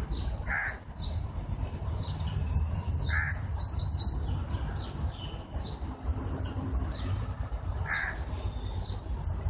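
Birds calling: a few short calls, about half a second in, just after three seconds and at about eight seconds, with a quick run of high chirps around four seconds, over a steady low rumble.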